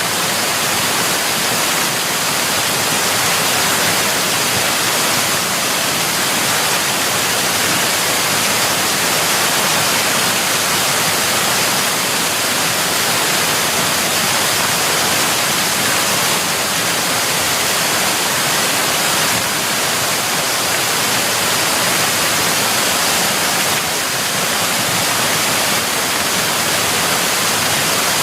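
Waterfall: loud, steady rushing of falling water, unchanging throughout.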